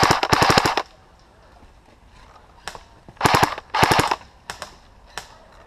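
Airsoft electric rifle firing on full auto: two short rapid bursts at the start, two more about three seconds in, and a few single shots near the end.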